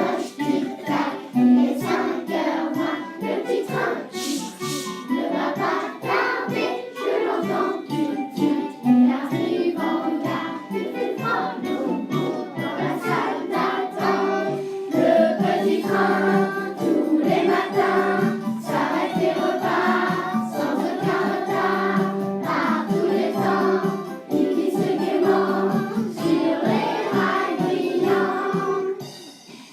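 A group of voices, sounding like children, singing a children's song in chorus with instrumental accompaniment.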